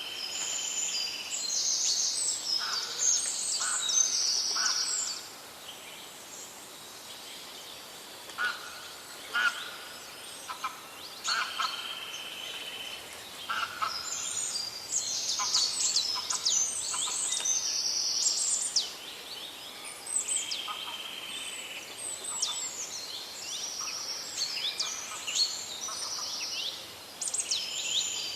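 Several songbirds chirping and singing together in a forest chorus: bouts of rapid high chirps, with short held whistled notes, and a couple of brief lulls where only scattered calls are heard.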